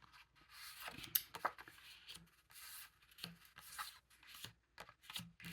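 Sheets of printed paper and tags being handled: light, irregular rustling and sliding as they are shuffled and laid down.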